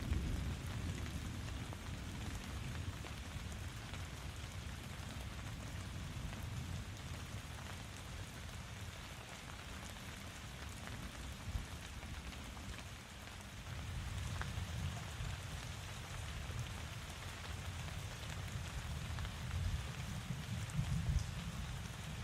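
Steady rain falling and pattering on surfaces, with a low rumble underneath that swells and eases a couple of times.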